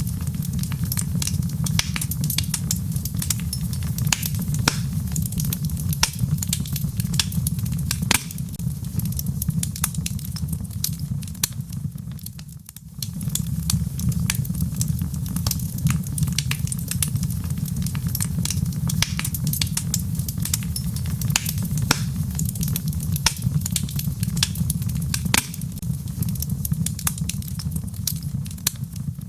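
Wood fire in a fireplace, logs crackling with frequent sharp pops and snaps over a steady low rumble of the flames. The sound drops briefly about twelve seconds in, then carries on as before.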